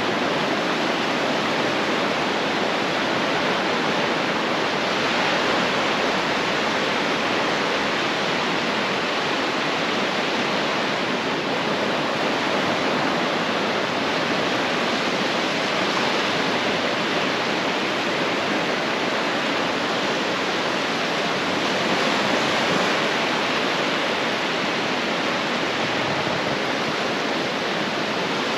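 Ocean surf washing onto a beach, a steady rush of wave noise with slight swells.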